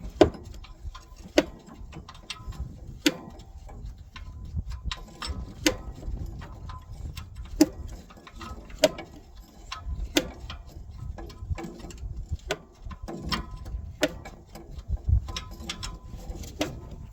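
Ratchet wrench clicking as an engine mounting bolt is worked loose, with sharp metallic clicks coming irregularly about once a second.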